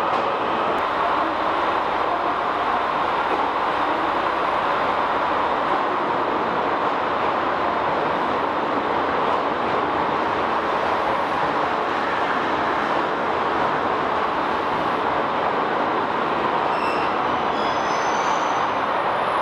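Shiki-shima luxury train rolling past at close range: a steady rushing, rolling noise of wheels and running gear, with a few faint high squeals near the end.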